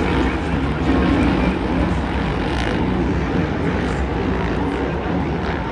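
Dirt bike engines running and revving, their pitch rising and falling, over a steady wash of noise.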